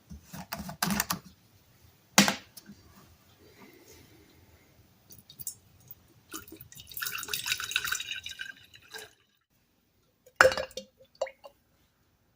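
Hydrogen peroxide being poured into a container to soak a plastic handle, with about two seconds of pouring near the middle. Sharp knocks and clinks of the container and handle being handled come before and after it.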